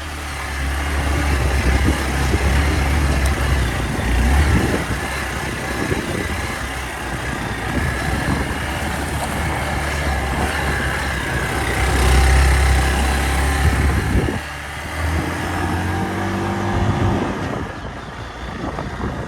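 Hero Xpulse 200 dual-sport motorcycle's single-cylinder engine running under load over rough off-road ground, with wind noise on the microphone. The engine note revs up and rises in pitch a few seconds before the end.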